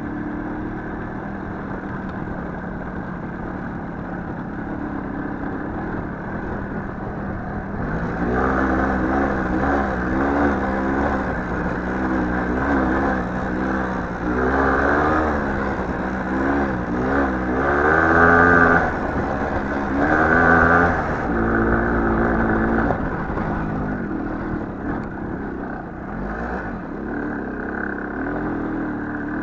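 Small motorcycle engine running steadily, then revved up and down over and over for about a dozen seconds before settling back to a steady run.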